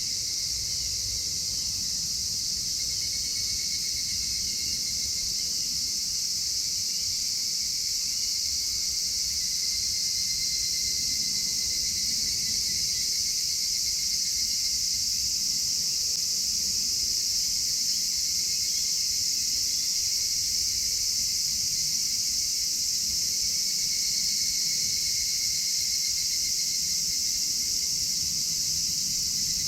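A dense chorus of crickets and other insects trilling without a break, a steady high shrill sound. A low rumble runs underneath it.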